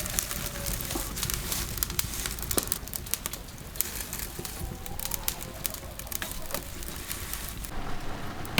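Irregular crackling and clicking throughout, with a bird cooing faintly in the background.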